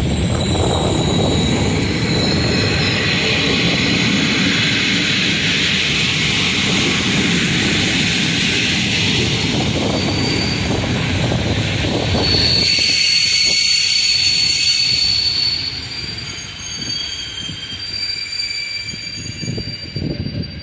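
PKP Intercity passenger coaches rolling past through a station, a steady rumble of wheels on the rails with high squealing tones from the wheels. A long steady squeal starts about twelve seconds in, and the rumble grows quieter about fifteen seconds in as the coaches move more slowly.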